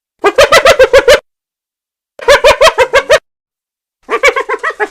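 Cheetah chirping: three bouts of rapid, high chirps, each about a second long and made of roughly eight to ten quick chirps, with about a second of silence between bouts.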